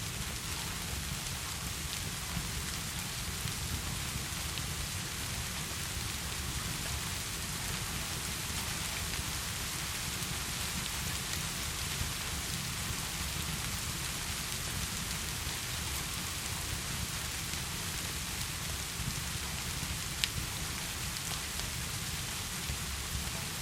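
Steady heavy rain: an even hiss with a low rumble underneath. A few sharp clicks sound from the fireplace crackling, one louder about twenty seconds in.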